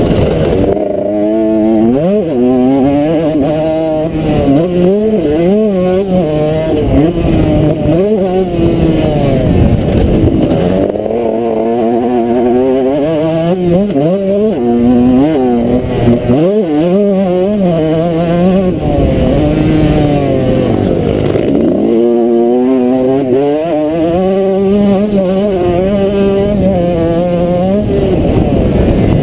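2003 Suzuki RM125's single-cylinder two-stroke engine revving hard, pitch climbing and dropping every second or two with throttle and gear changes as the bike is ridden around a motocross track.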